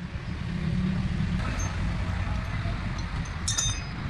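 A steady low rumble with one sharp metallic clink about three and a half seconds in, as of a metal tool or part knocked against metal.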